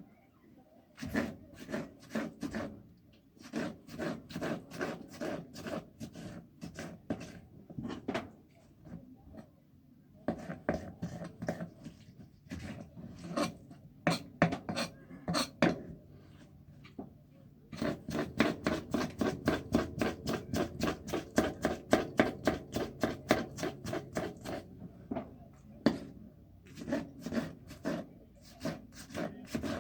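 Rapid, rhythmic scraping strokes on wood, about four to five a second, in runs broken by short pauses: food being worked by hand on a wooden surface.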